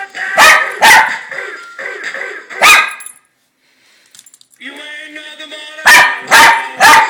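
Pet dog barking for treats in short, loud barks: three, then a brief drop-out, then three more in quick succession. Background music plays under the barks.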